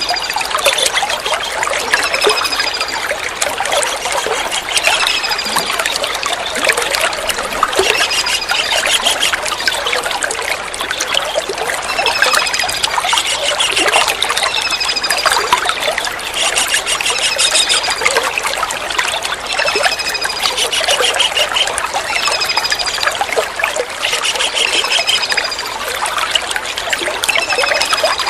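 Steady trickling water, with a small kingfisher calling over it about every two to three seconds. Each call is a short, high, falling note paired with a lower note and a brief trill.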